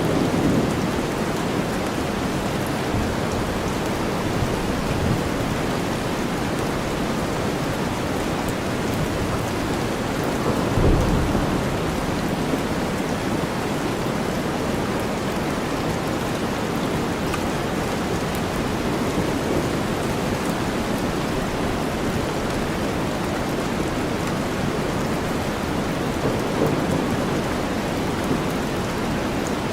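Steady heavy rain mixed with deep white noise. About eleven seconds in there is a brief louder low rumble, like distant thunder.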